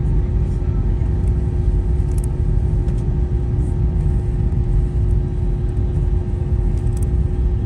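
Airbus A320 cabin noise while taxiing: a steady low rumble with a steady hum over it.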